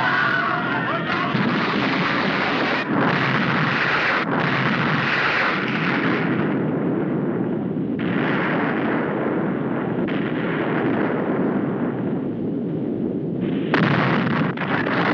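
Film sound effects of loud, continuous rumbling and blasting like explosions or an eruption, with abrupt changes in character several times as the shots cut.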